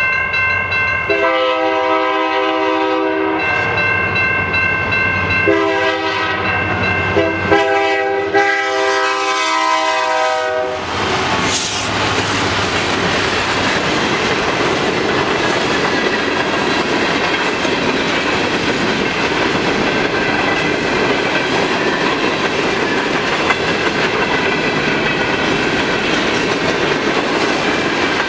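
Lead diesel locomotive's multi-chime air horn sounding the long, long, short, long grade-crossing signal. It is followed by the SD90MAC and SD70ACe locomotives passing close by and a long train of empty hopper cars rumbling and clattering over the rail joints.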